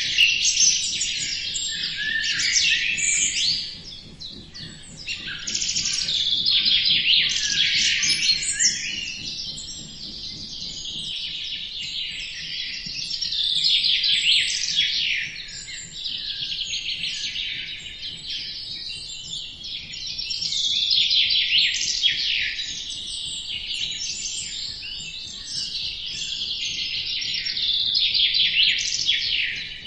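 Many small birds chirping and twittering at once: a dense chorus of quick, high calls that swells and eases every few seconds.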